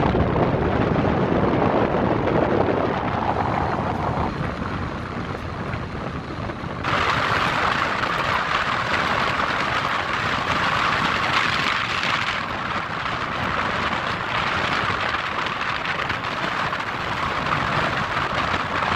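Steady rushing outdoor noise of a snowstorm, with wind on the microphone and city traffic. It has no distinct events and shifts abruptly in tone several times as the shots change.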